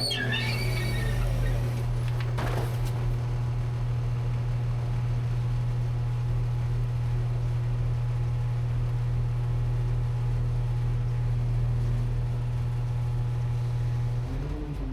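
Rear-loader garbage truck engine running at a steady idle, with a brief high squeak at the start and a single knock a couple of seconds in. Near the end the engine begins to rev up.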